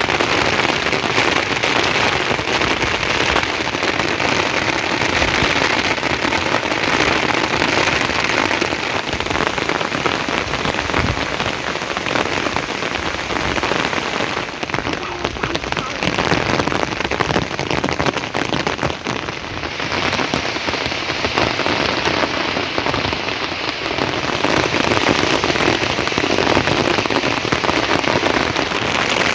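Rain falling steadily, a dense patter of drops on surfaces; it eases slightly for a few seconds past the middle.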